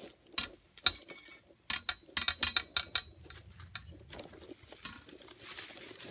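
Metal animal trap being worked by hand: sharp metallic clicks and clanks, a couple early and a quick run of them packed into about a second near the middle, then softer rustling.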